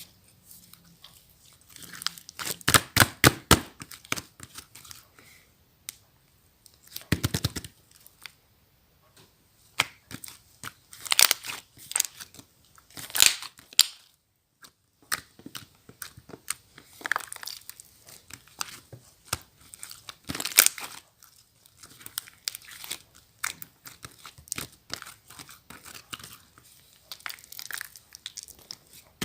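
Slime being squeezed, poked and stretched by hand, giving irregular runs of sticky clicks and popping air bubbles, with short pauses between handfuls.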